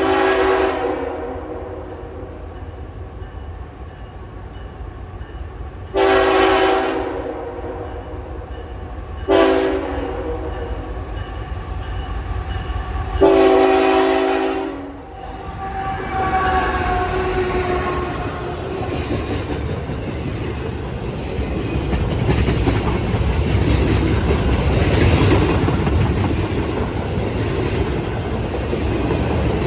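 CSX freight locomotive's horn sounding the grade-crossing signal, long, long, short, long, as the train approaches. The locomotives and freight cars then rumble past, the noise building and holding steady.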